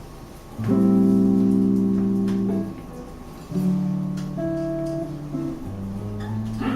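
Guitar playing slow chords, three of them, each struck and left to ring for about two seconds, at the opening of a song.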